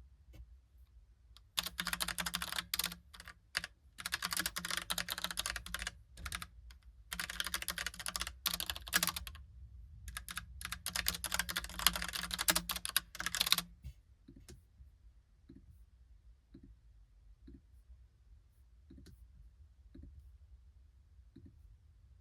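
Logitech POP Keys typewriter-style mechanical keyboard being typed on in fast, busy runs of key clacks with brief pauses. The typing stops a little over halfway through, leaving only faint single clicks about once a second.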